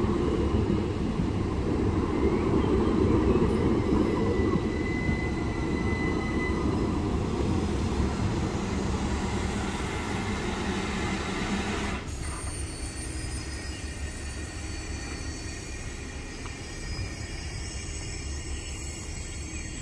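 Two coupled Southeastern Class 377 Electrostar electric multiple units passing over a level crossing: a steady rumble of wheels on the rails, with a brief squeal about five seconds in. The sound drops abruptly about twelve seconds in and stays quieter to the end.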